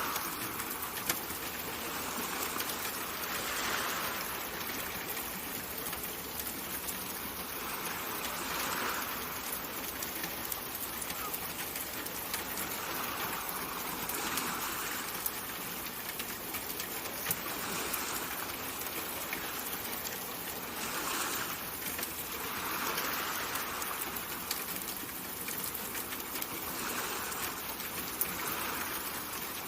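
Steady ambient water sound, a soft hiss like rain or running water, swelling gently every four to five seconds, with a few faint ticks.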